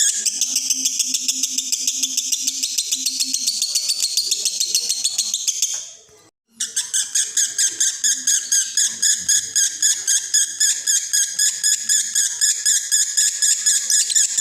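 Male lovebird in breeding condition singing a long unbroken 'konslet' chatter: fast, evenly pulsed, high-pitched twittering. It fades out about six seconds in and breaks off for about half a second, then starts again.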